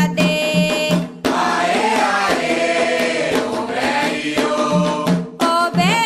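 Candomblé chant for Xangô sung in Yoruba: a lead voice sings a line, then a group of voices answers in chorus. Atabaque hand drums beat under the lead at the start and come back in near the end.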